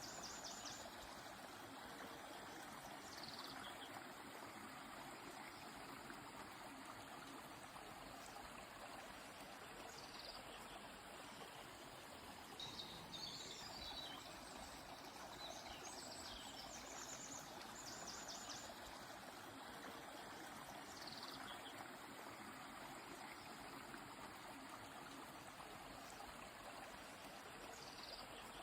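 River flowing steadily, with small birds calling now and then above it: short high trills and brief falling calls.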